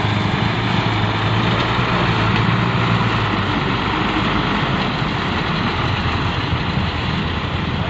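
Diesel engine of a loaded Mitsubishi Fuso dump truck running steadily. Its low, even hum fades about three and a half seconds in, leaving a rougher engine noise.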